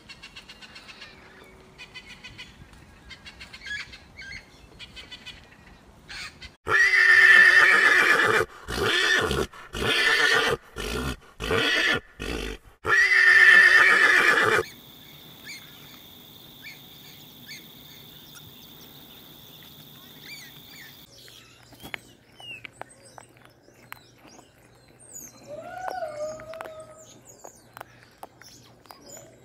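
Donkey braying: one loud hee-haw series about eight seconds long, starting about a quarter of the way in, with a long drawn call, a run of short alternating ones, and another long call. Before and after it there are only faint chirps and small calls.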